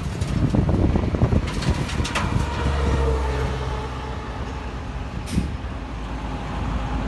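Heavy diesel earthmoving machinery running at a steady low note, with irregular knocks and clatter in the first couple of seconds and a short hiss a little past halfway.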